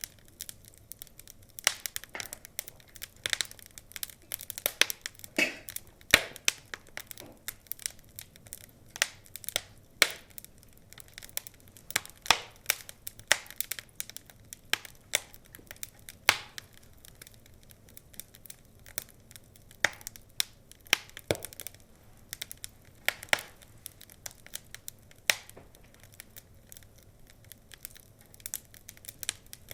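Wood fire crackling: irregular sharp snaps, several a second, with some louder pops among the smaller crackles.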